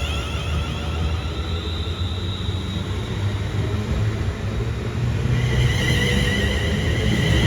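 A train running through the station: a steady low rumble with a high-pitched whine that grows louder about five and a half seconds in, as the train comes closer.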